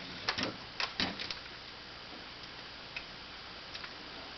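Sharp plastic clicks and snaps as the clips holding the terminal cover on a vacuum's telescoping wand are pried loose, several within the first second and a half, then a couple of faint ticks near the end.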